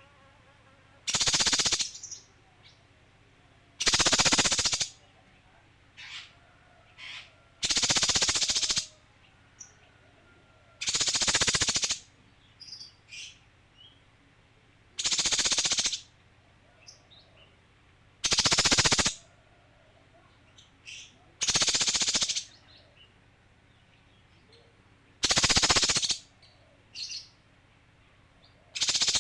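Male kinoi bird calling in harsh, rapid rattling bursts, each under a second long, repeated about every three to four seconds, with faint short chirps in between.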